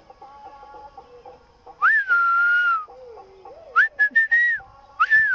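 Pet parrot whistling: a long note that jumps up and then holds steady about two seconds in, a quick run of short whistled notes about four seconds in, and one more falling note near the end.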